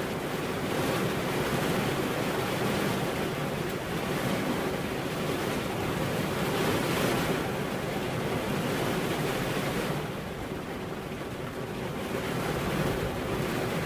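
Steady heavy rainfall, a dense hiss that swells and eases. It dips briefly about ten seconds in.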